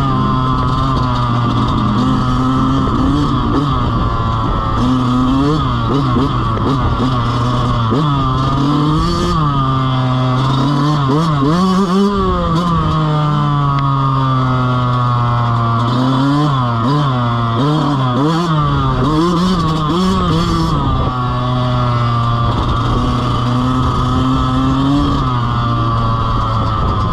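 Dirt bike engine running under load, its pitch rising and falling again and again as the throttle opens and closes, with steadier stretches between.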